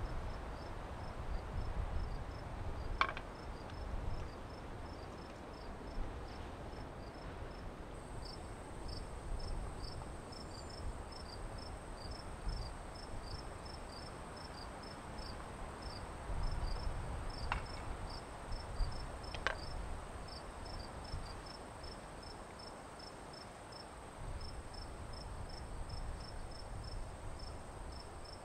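Crickets chirping steadily, about two to three short chirps a second. A steady high-pitched tone joins about eight seconds in, over a low rumble, with a few faint clicks.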